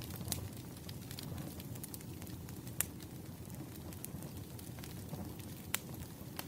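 Wood fire crackling, with scattered sharp pops over a low steady rumble; the loudest pops come about three seconds in and again near the end.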